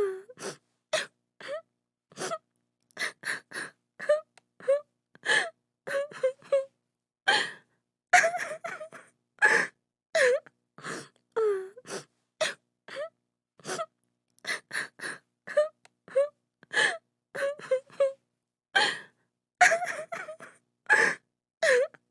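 A woman crying and sobbing, with short gasping sobs and whimpers in quick succession, each broken off by a brief silence.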